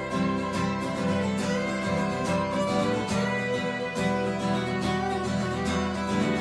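Live folk band playing an instrumental break: strummed acoustic guitar with a fiddle, in a steady rhythm.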